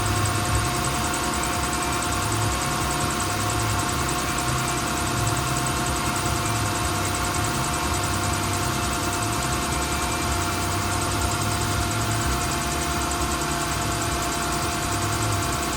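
Car engine idling steadily, an even hum that does not change.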